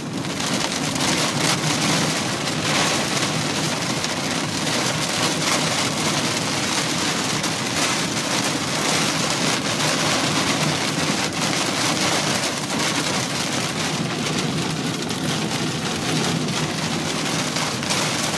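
Heavy rain beating on a truck's windshield and roof, heard from inside the cab while driving: a steady hiss with many small patters.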